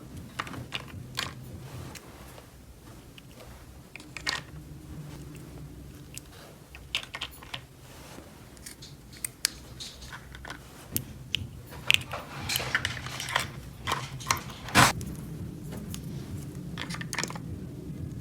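Small hard plastic toy pieces being handled: irregular clicks, taps and light clatter, busier and louder in the second half, with a sharp knock near the end.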